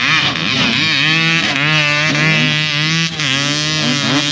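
Motorcycle engines running hard, their pitch rising and falling over and over as they rev and pass, over a steadier low engine note.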